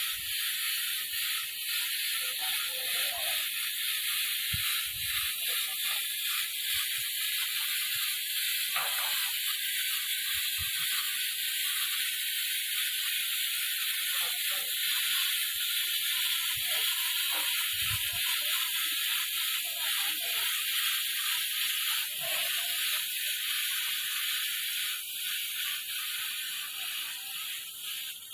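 Automatic car wash machine's high-pressure water jets spraying with a steady hiss, which begins to die down near the end.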